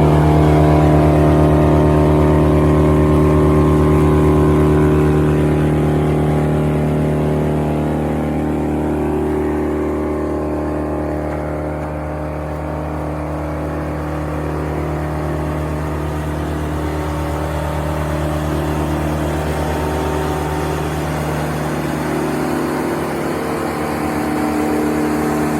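Morbark Tornado wood chipper's engine running at a steady speed. It gets a little quieter in the middle, then holds.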